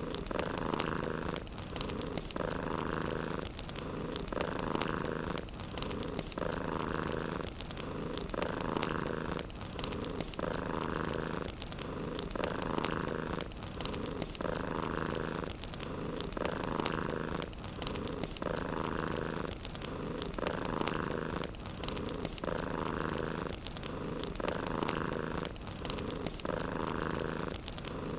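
Domestic cat purring close up, pulsing steadily with each breath in and out about every second and a half, over faint fine crackling of a wood fire.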